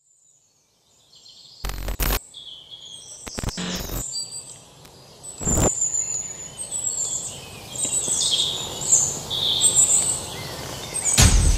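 Birds chirping over a faint background hiss, cut by a few short, sharp sounds about two, three and a half and five and a half seconds in. Music with deep drum beats comes in near the end.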